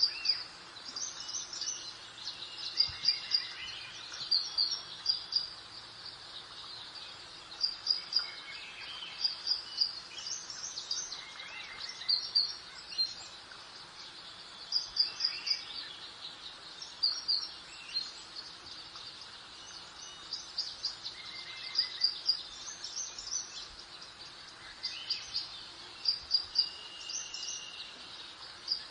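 Garden birdsong: a bird repeats short, high, quick chirping phrases every second or two, with fainter whistles from other birds, over a steady soft hiss of background ambience.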